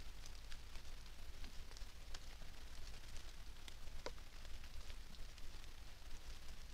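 Rain falling on forest leaves: scattered small ticks of drops over a steady hiss, with one sharper drop about four seconds in, above a steady low hum.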